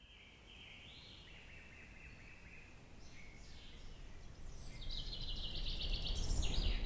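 Birds singing in repeated chirping, trilled phrases, over a low rumble that grows steadily louder toward the end.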